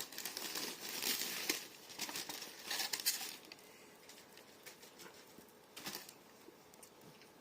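Crinkling and rustling of takeaway food packaging with small clicks, for about the first three seconds, then only a few faint ticks.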